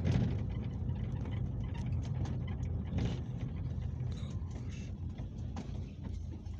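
Cabin noise inside a Peugeot Boxer route minibus on the move: a steady low rumble of engine and road, with scattered rattles and knocks. The sharpest knocks come at the very start and about three seconds in.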